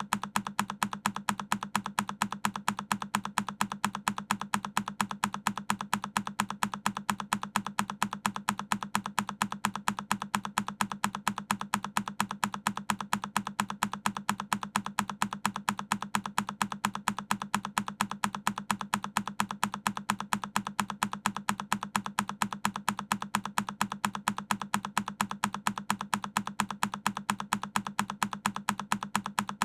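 A single key press on a Keychron K10 mechanical keyboard, the same click repeated over and over in a quick, perfectly even rhythm.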